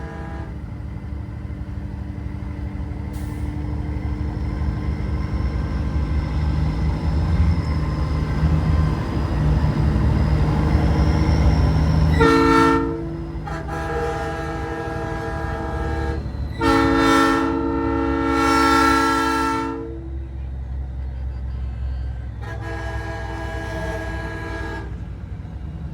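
Nathan AirChime P3 train horn on a big rig, sounding a steady multi-note chord in several blasts: a short one about twelve seconds in, two longer ones just after (the second the loudest), and another near the end. Under it the truck's engine rumbles, growing louder over the first twelve seconds.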